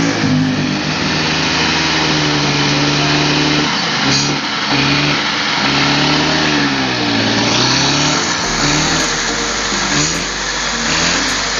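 Vespa Corsa 125 automatic two-stroke single-cylinder engine running after assembly, its pitch rising and falling as it is revved and let back down.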